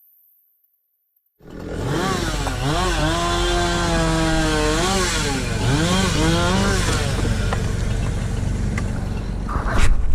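Chainsaw engine running hard after a sudden start, its pitch dipping and rising several times as if under changing load, then holding steadier. A sharp knock sounds near the end.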